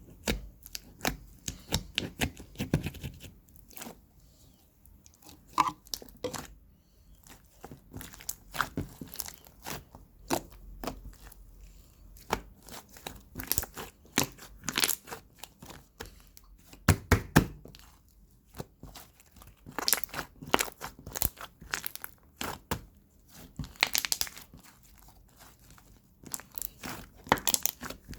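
Crinkling and crunching from something being crumpled and squeezed by hand, in irregular clusters of sharp crackles with short pauses between them.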